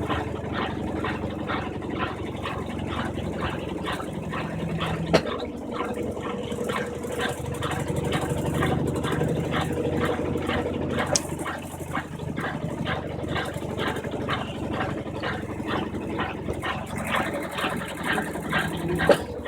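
Brastemp 15 kg washing machine agitating its load in the rinse cycle: rhythmic swishing of water and clothes, about three strokes a second, over a steady motor hum. A sharp click about five seconds in and another near the end.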